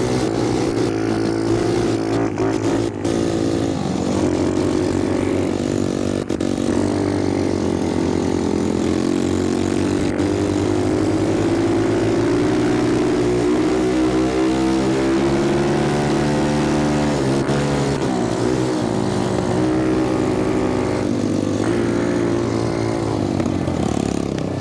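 Small single-cylinder four-stroke dirt bike engine running under load while ridden, its pitch rising and falling as the throttle is worked, with a few brief dips.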